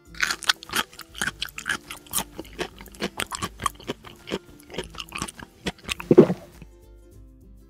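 Crisp chewing and crunching, as of crunchy vegetables being bitten and chewed, in quick irregular bites for about six seconds, ending in one louder, lower sound.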